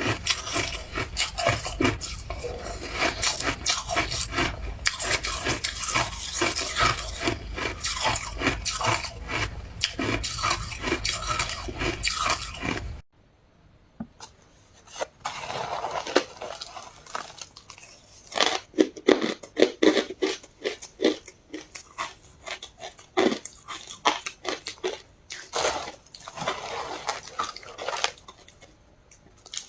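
Ice being chewed close to the microphone, a continuous stream of crunching. About halfway through it cuts abruptly to quieter, separate crunches with pauses between them.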